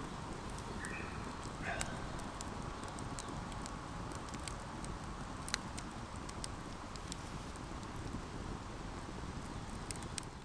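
Wood campfire crackling: scattered sharp pops and snaps over a steady low rush.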